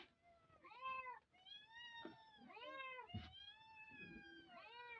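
A cat meowing over and over, faint: a string of drawn-out meows that each rise and fall in pitch, some of them overlapping.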